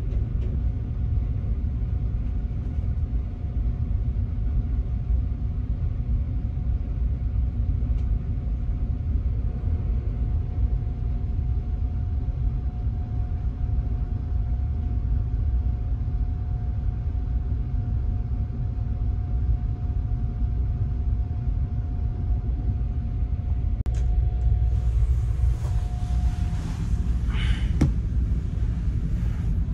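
Low, steady rumble with a constant hum heard inside a compartment of a 285-series Sunrise Izumo sleeper train. Near the end a hiss joins in for a few seconds, with a brief whistling tone.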